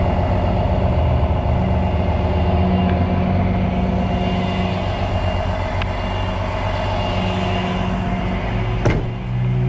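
Tow truck's engine running steadily, with one sharp click near the end.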